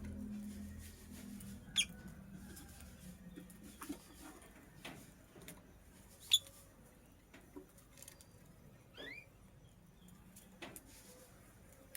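Lovebird giving two short, sharp chirps a few seconds apart and a short rising call later, among light scratching and clicking sounds.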